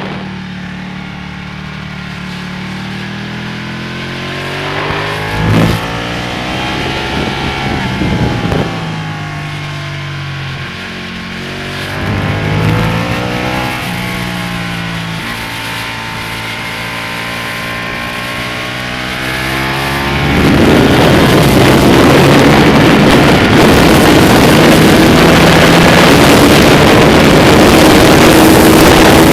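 Ducati Panigale's V-twin engine heard from on board the bike, rising and falling in pitch as it accelerates and slows for the turns. About twenty seconds in, loud wind rush over the microphone takes over as speed builds, with the engine still running underneath.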